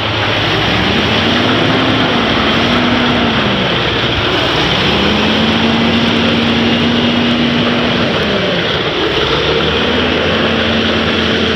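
Heavy Scania truck's diesel engine working under load while it reverses, over a loud steady rumble. Its pitch rises, holds and falls back about four times as the throttle is fed and lifted.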